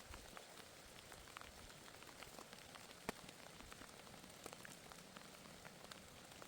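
Faint rainfall: a steady hiss with scattered drops ticking, one sharper tick about three seconds in.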